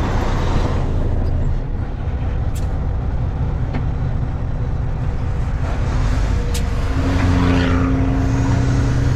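Semi truck's diesel engine running with road noise while driving. About seven seconds in, a steady engine tone comes up stronger, and a thin high whistle rises near the end.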